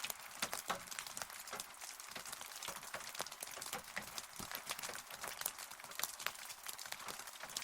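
Rain falling, with many separate close drops striking a hard surface at an uneven rate over a steady high hiss.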